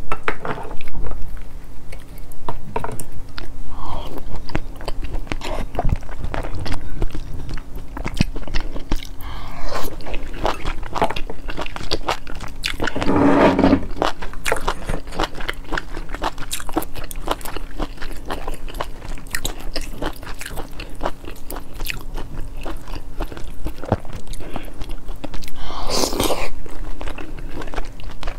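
Close-miked chewing of raw oysters, a dense run of mouth clicks and bites, with two longer, louder sounds about halfway through and near the end.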